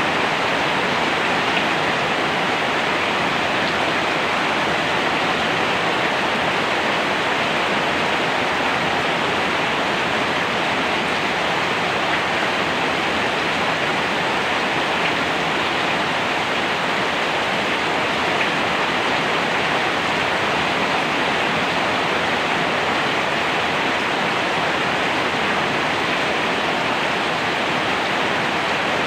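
Steady heavy rain, a constant even hiss of falling water with no distinct drops or thunder.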